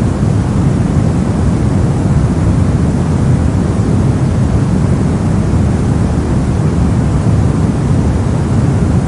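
Steady, unbroken soft noise, a white-noise-style track weighted toward the low end, giving a deep, even rushing hiss.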